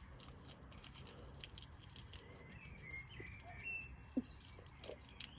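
Faint background with scattered light clicks and a few short bird chirps about two to four seconds in.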